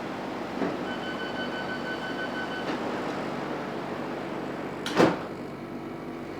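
Metropolitan line train's door-closing warning: a rapid run of high beeps for about two seconds. A couple of seconds later the sliding doors shut with a single loud thud, over the carriage's steady hum.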